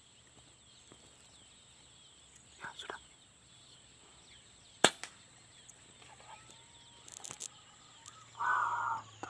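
A single sharp shot from a hunting air rifle about halfway through, over a steady high-pitched insect-like whine. A brief noisy rustle follows near the end.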